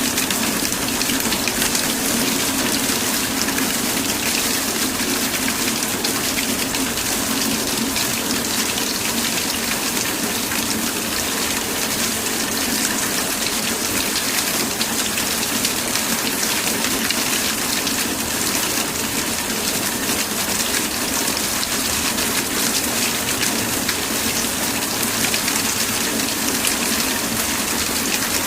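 Steady, heavy rain falling, an even continuous hiss of drops with a fuller low rush beneath it.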